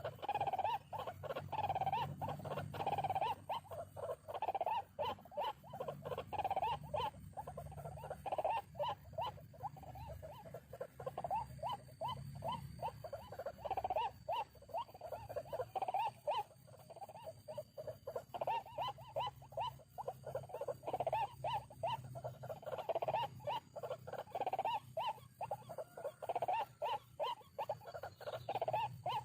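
White-breasted waterhen's harsh 'ruak-ruak' call, repeated rapidly and continuously. It is a lure call played from an MP3 player to draw birds into the snares.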